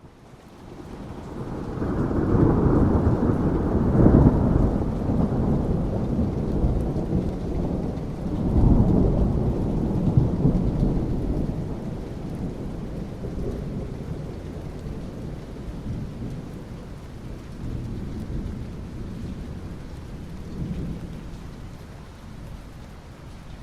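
Thunder rumbling over steady rain: a deep rolling rumble swells in over the first few seconds, swells again about nine seconds in, then slowly dies away while the rain hiss carries on.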